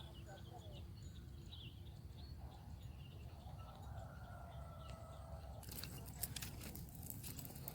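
Small birds chirping sporadically over a low outdoor rumble, with a faint drawn-out tone in the middle. About three-quarters of the way in, a run of sharp crackling clicks starts and becomes the loudest sound.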